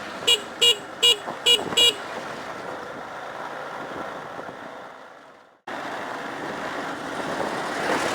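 A vehicle horn honks five short times in quick succession, over the steady noise of a motorbike riding on a dirt road. The sound cuts out for an instant about two thirds of the way through, then the road noise resumes.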